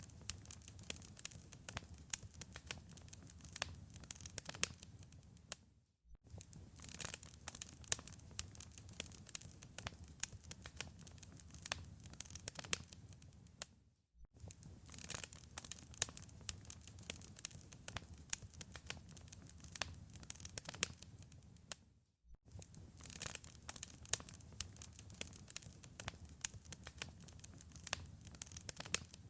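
Wood fire crackling in a fireplace: many sharp pops and snaps over a low, steady rumble of the flames. The sound cuts out briefly three times, about every eight seconds.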